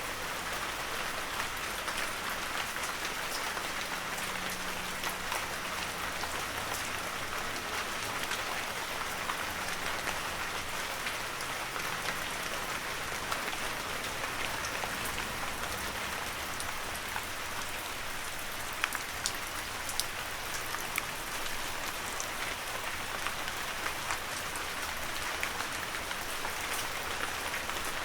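Heavy rain falling steadily, a dense hiss with many individual drops pattering and ticking on near surfaces.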